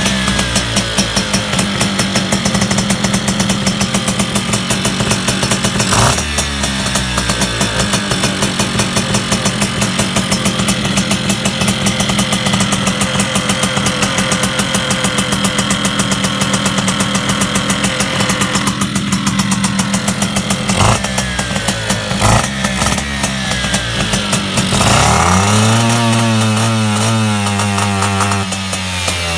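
Piaggio moped's small two-stroke engine running at a fast, steady speed, with a few sharp cracks along the way; near the end it is revved up and back down.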